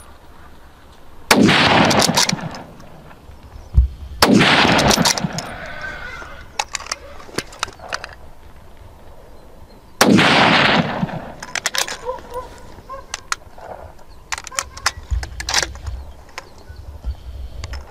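Three gunshots, about a second and a half in, about four seconds in and about ten seconds in, each followed by a long echo dying away, with small sharp clicks and knocks between them.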